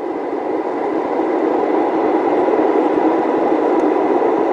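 A steady, muffled rushing noise that grows slightly louder, with no beat or clear pitch.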